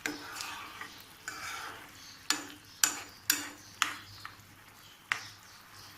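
A cooking utensil knocks and scrapes against a pan while stirring a simmering tomato and lemon-juice paste: a handful of sharp clicks, four of them about half a second apart in the middle, with light sizzling in the first two seconds.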